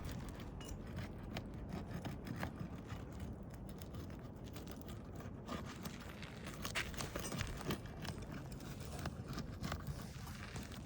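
Irregular light scrapes, taps and clicks of hand work on an asphalt shingle roof, as the fasteners of a shingle row are released.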